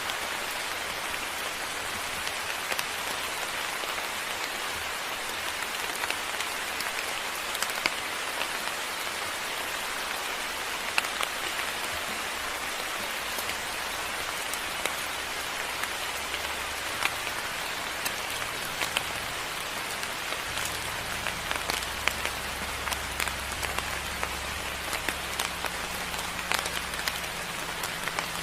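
Moderate rain falling steadily, with many sharp individual drops pattering close by. A low rumble joins in about halfway through.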